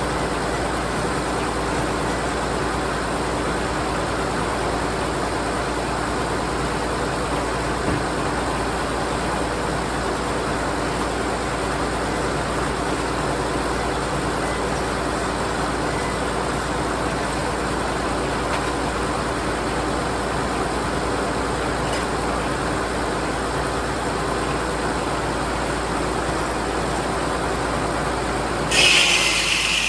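An engine running steadily at a constant speed. About a second before the end, a sudden loud, harsh, high-pitched noise starts over it.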